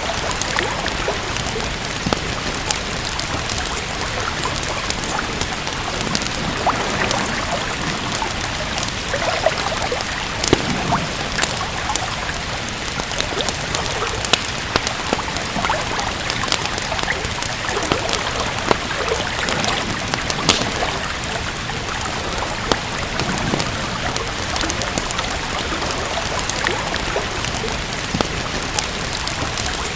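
Steady rain with a wood fire crackling over it, many small sharp pops scattered throughout.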